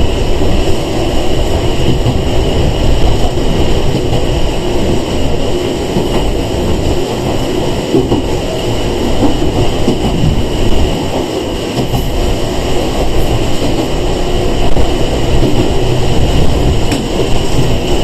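Sangi Railway 101 series electric train (ex-Seibu 401 series) running, heard from inside the passenger car: a steady rumble of wheels on rail and running gear.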